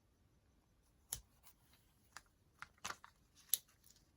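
Paper being handled: a handful of short rustles and taps, scattered a second or so apart, the loudest about three and a half seconds in.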